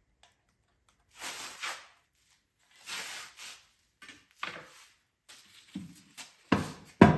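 Tools and engine parts being handled: three short scraping rattles, then a run of louder knocks near the end.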